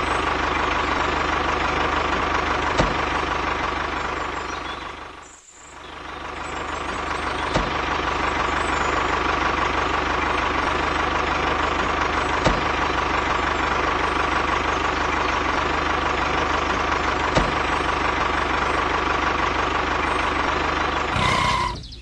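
Diesel tractor engine running steadily at a constant idle-like speed. It fades out and back in about five seconds in, has a faint click roughly every five seconds, and stops shortly before the end.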